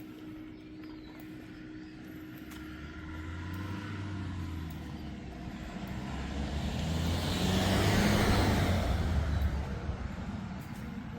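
A motor vehicle passing by: a low engine hum and tyre noise that grow louder over several seconds, peak about eight seconds in, then fade away.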